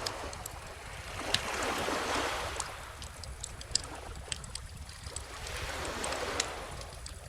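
Beach bonfire crackling with scattered sharp pops, over calm ocean waves washing in, swelling twice, about two seconds in and again near six seconds.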